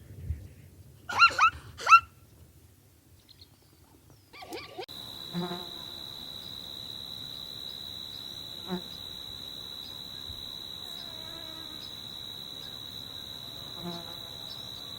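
Three short animal calls in quick succession in the first two seconds. From about five seconds in, a steady, unbroken high-pitched insect drone takes over, with a few faint low calls underneath.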